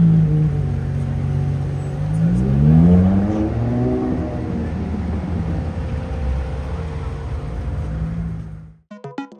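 Sports car engine revving: its pitch dips, then climbs in a sharp rev about two seconds in and settles into a steady running note. It cuts off abruptly near the end, where electronic synth music starts.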